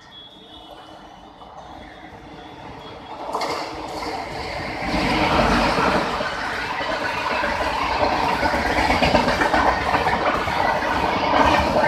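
An Indian Railways passenger train approaching and passing. Its running noise grows louder about three seconds in and stays at full strength from about five seconds on.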